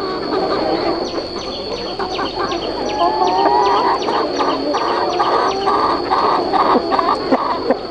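A flock of chickens clucking and calling over one another, with one bird repeating a call about twice a second through the second half. A steady high-pitched whine runs underneath.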